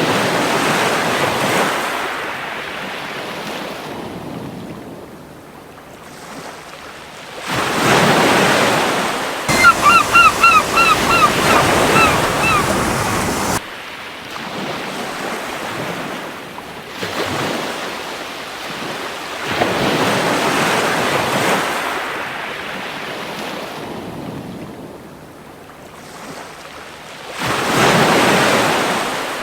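Waves breaking on a beach, surging and falling back in slow swells every several seconds. About ten seconds in, a gull gives a quick run of short calls lasting a few seconds.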